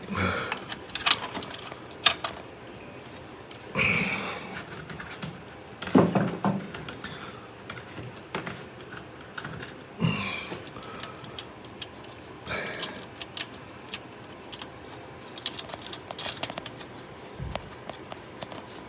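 Small metal clicks and clinks of bolts and hand tools being handled while fitting exhaust hardware, with a few louder short scrapes and knocks.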